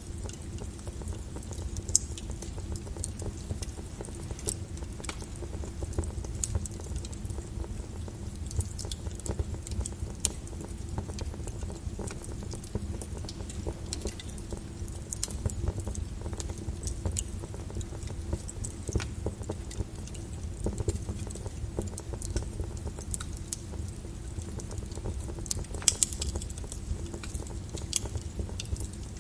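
Wood fire crackling with irregular snaps and pops, two of them sharper (about two seconds in and near the end), over a steady low rumble and the patter of rain on a window.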